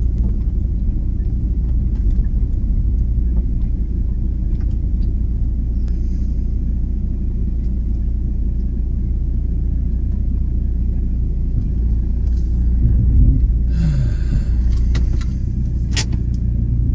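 Steady low rumble of a car heard from inside the cabin while driving. There is a short hiss about fourteen seconds in and a sharp click a little after.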